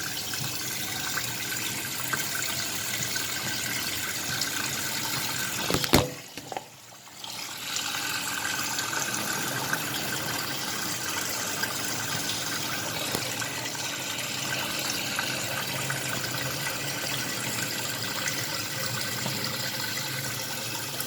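Tap water running steadily into a sink as raw chicken is washed. About six seconds in there is a sharp knock, and the flow drops away for about a second before it resumes.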